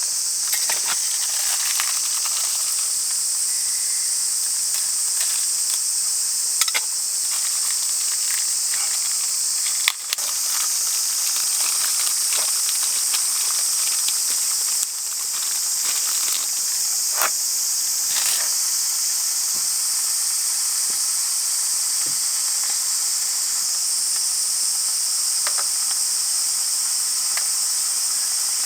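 Dense summer insect chorus in the forest: a steady, high-pitched drone, with scattered small clicks and crackles throughout.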